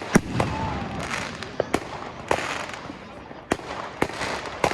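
Fireworks going off: sharp bangs at irregular intervals, about seven in under five seconds, over a continuous crackling haze.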